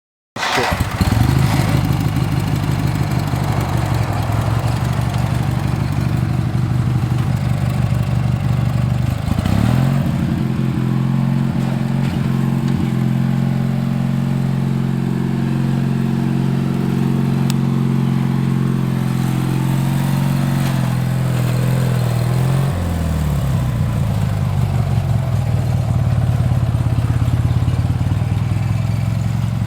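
Craftsman LT4000 riding lawn tractor's vertical-shaft engine running. It starts suddenly, holds a steady note, changes pitch about nine seconds in and drops back to its first note about twenty-three seconds in.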